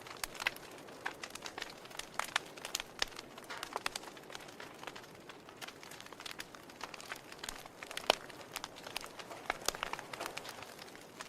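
Wood fire burning in a fireplace, logs crackling with irregular sharp pops over a soft hiss of flame, one louder pop about eight seconds in.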